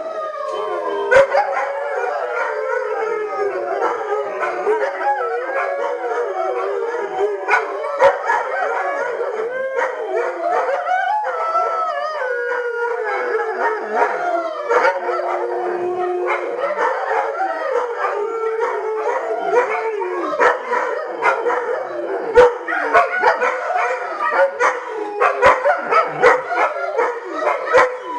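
A group of Alaskan malamutes howling together, many long wavering howls overlapping into a chorus, with choppier yips near the end. It is the pack howling in answer to a passing fire truck's siren.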